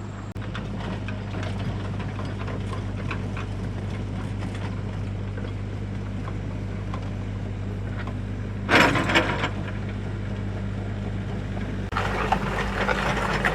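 A motor running steadily with a low, even hum. A brief loud clatter comes about nine seconds in, and more clattering starts near the end.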